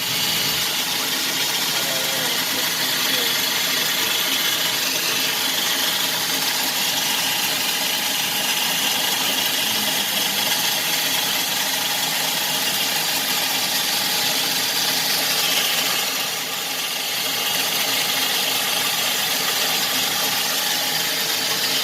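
A GMC 3.6-litre V6 engine idling steadily.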